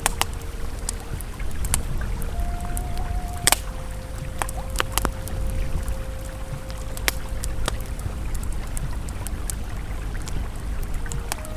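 Campfire crackling with scattered sharp pops, over the steady rush of a flowing river. Soft ambient music tones are held one at a time and shift pitch every few seconds.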